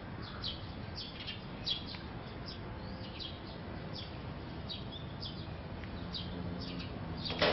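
Small birds chirping, many short high calls that fall in pitch, repeating irregularly over a steady outdoor background. Near the end there is a single louder call that sweeps down in pitch.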